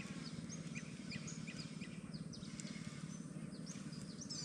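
Several birds calling, many short high chirps and quick whistles overlapping, over a faint low background rumble.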